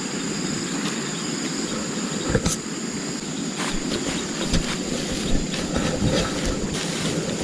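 A steady low rushing noise with insects shrilling steadily high above it, broken by a few short knocks, the clearest about two and a half seconds in.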